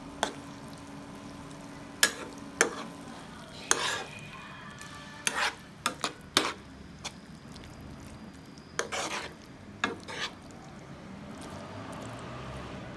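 Food frying in a pan with a steady sizzle, while a cooking utensil stirs and knocks against the pan about a dozen times, sometimes in quick clusters, over the first ten seconds.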